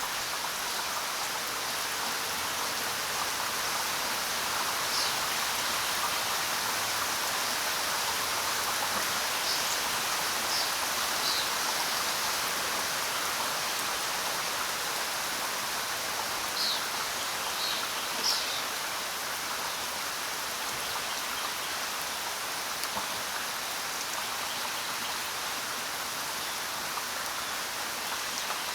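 Steady rain falling on the ground: an even hiss of many drops. A few short, high chirps stand out near the middle.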